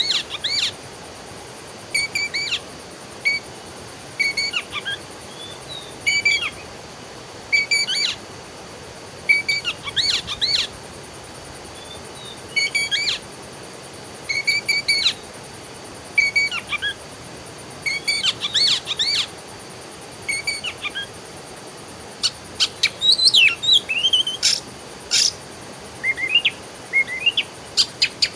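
Songbirds singing short, repeated chirping phrases every second or two over a faint steady hiss. In the last few seconds the calls come quicker, with sharper, higher chirps crowding in.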